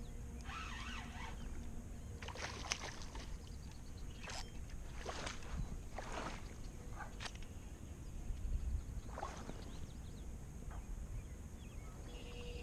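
Low steady wind rumble on the microphone, with scattered short knocks and rustles throughout.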